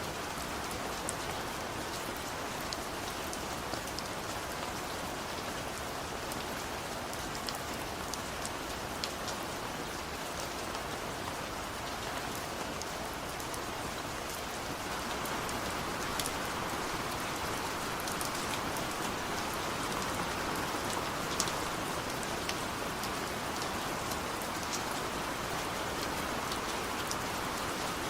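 Heavy rain falling steadily, an even hiss with scattered sharp drop ticks on a surface, growing slightly heavier about halfway through.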